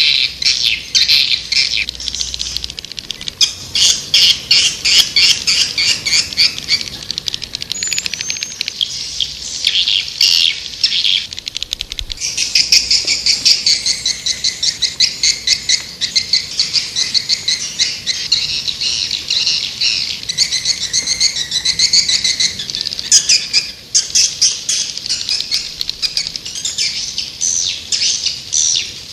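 Recorded calls of white-nest swiftlets (edible-nest swiftlets): dense trains of rapid, high twittering chirps from several birds at once, with short breaks. This is the swiftlet call sound played to lure swiftlets into a nesting house.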